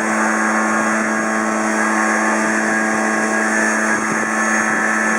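Kawasaki two-stroke backpack leaf blower running steadily, its engine drone held at one pitch over the rush of air from the blower tube.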